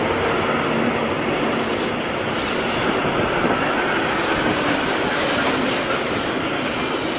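Freight train's intermodal wagons rolling past at speed close by: a steady, loud rush of steel wheels on the rails.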